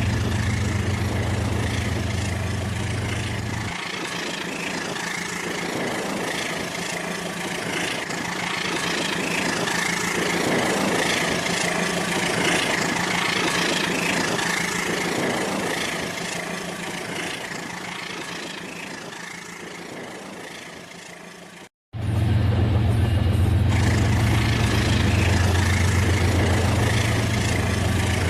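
Battery-powered toy train running on plastic track, its small motor whirring steadily; a deep hum drops away about four seconds in and comes back after a sudden cut near the end.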